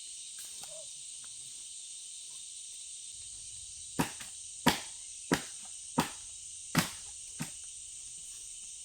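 Steady high drone of insects, with five sharp knocks struck about two-thirds of a second apart starting about halfway through, then a lighter sixth knock.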